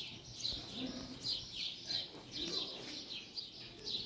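Small birds chirping: quick, high, downward-sliding chirps repeated about two or three times a second.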